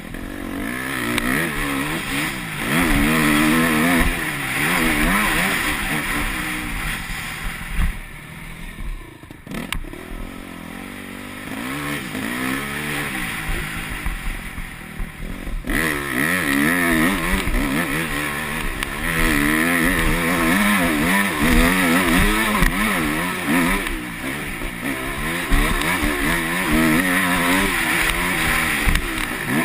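Yamaha YZ250F four-stroke single-cylinder motocross engine being ridden hard, the revs rising and falling again and again through the gears. About eight seconds in the throttle closes and the engine drops away briefly before revving back up, pulling hardest in the second half.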